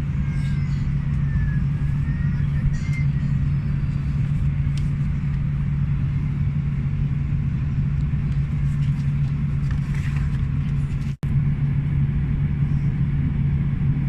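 Steady low drone with a constant hum inside the cabin of an Airbus A320 parked at the gate before engine start, the sound of its air conditioning and ventilation. It cuts out for a split second about eleven seconds in.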